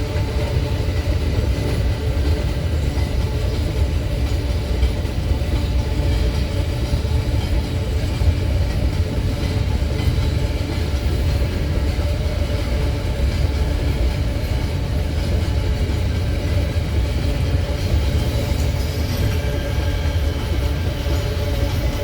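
Empty iron-ore freight wagons rolling past, a steady low rumble and rattle of wheels on rail.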